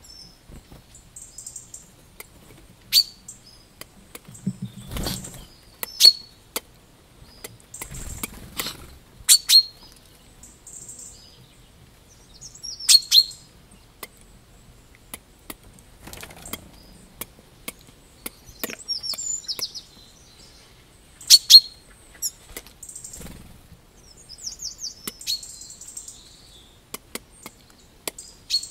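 Small birds calling in the open: sharp, short chip notes every few seconds, loudest about three, six, nine, thirteen and twenty-one seconds in, over softer high twittering. A few low dull thumps come in between.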